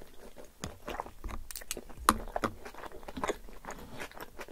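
Close-miked chewing of a mouthful of yoğurtlu tantuni: a dense run of short mouth clicks, the loudest about two seconds in.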